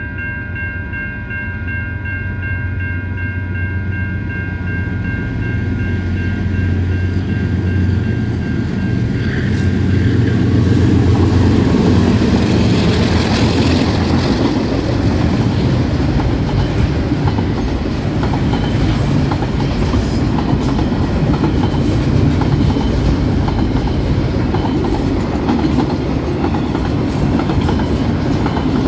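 A level-crossing alarm bell rings in a fast, steady pulse while two DX-class diesel-electric locomotives approach, their engine rumble rising. About ten seconds in the locomotives pass and their loud rumble buries the bell. Freight wagons follow, rolling past with a steady clickety-clack of wheels over the rail joints.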